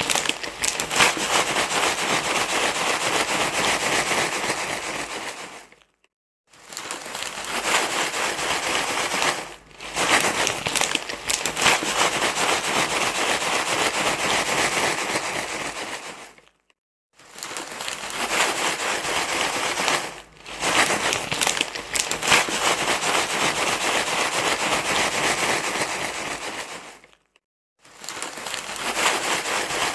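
Dense crinkling and rustling noise, the kind of rustle played to calm a crying baby, in long stretches broken by short dips and brief silences about six, seventeen and twenty-seven seconds in.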